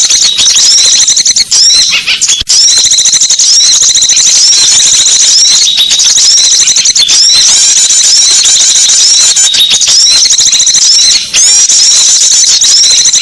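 Small songbirds chattering in a loud, dense, unbroken stream of rapid high chirps and twitters, with only a couple of brief breaks. This is a small-bird lure call, used to draw wild birds in.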